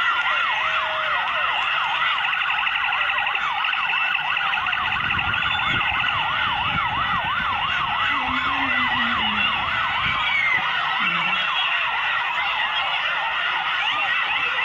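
Electronic vehicle sirens on a fast yelp, the pitch sweeping up and down about three times a second, with more than one siren overlapping. A low rumble joins them in the middle.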